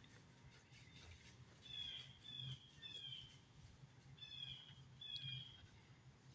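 A bird calling faintly in the woods: short, harsh, downslurred notes, three in quick succession about two seconds in, then two more about a second later, over a faint low hum.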